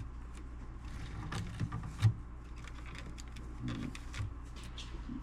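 Faint scattered rubbing and light clicking of a disinfecting wipe being worked over old stereo cables and casing, with a sharper tick about two seconds in, over a steady low hum.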